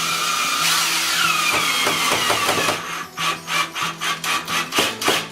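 Power drill with a Phillips bit driving a wood screw through a shelf into the wall: a steady run whose motor whine drops in pitch as the screw takes up the load, then about three or four short bursts a second as the screw is snugged down.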